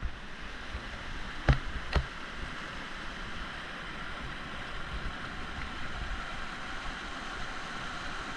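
River water rushing steadily where it churns into bubbly white water. Two sharp clicks stand out about a second and a half and two seconds in.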